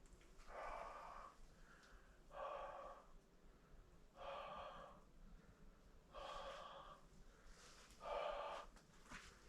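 A person breathing: five breaths, each about half a second long, roughly two seconds apart.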